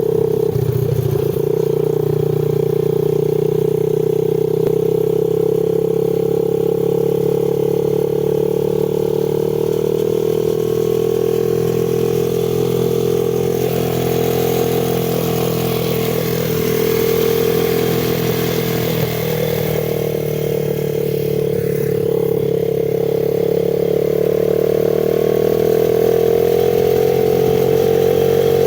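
X-Pro 110cc semi-automatic dirt bike's small single-cylinder four-stroke engine running steadily at moderate revs; the note sags a little about two-thirds of the way through, then climbs again near the end.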